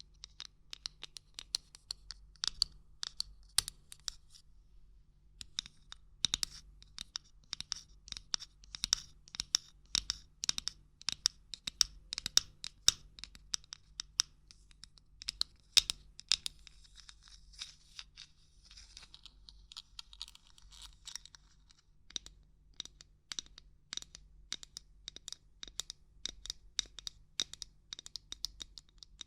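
Irregular light knocking and tapping on hard objects, quick clicky taps in uneven bursts, with a pause of about two seconds near the start and a few seconds of softer scratching a little past the middle.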